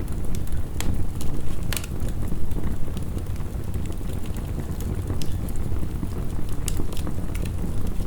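Crackling wood fire with irregular sharp pops and snaps over a steady low rumble of heavy rain.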